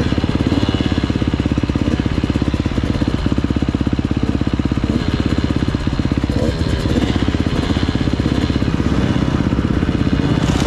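Husqvarna TC 85's 85cc two-stroke single-cylinder engine running steadily as the bike is ridden, its pitch shifting only a little.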